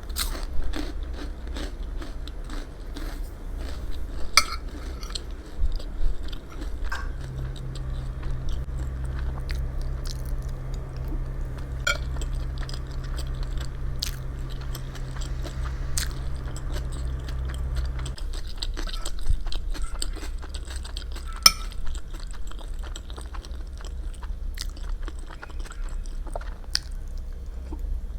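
Chewing and biting into food close to an ASMR microphone, with scattered sharp clicks of cutlery against a dish. A steady low hum comes in about seven seconds in and stops about eighteen seconds in.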